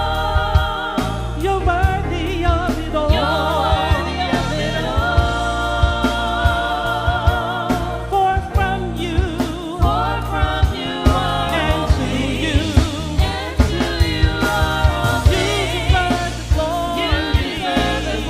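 Live gospel worship music: voices hold long wavering notes over a band with a steady bass and regular drum hits.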